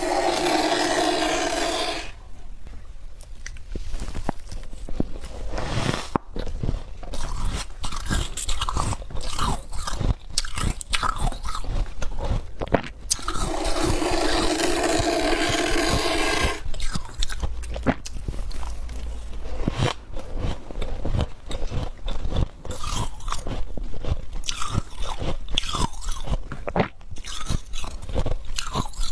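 Thick humidifier frost being bitten and chewed close to the microphone: a dense run of crunching. There are two spells of rasping scraping, at the start and about halfway through.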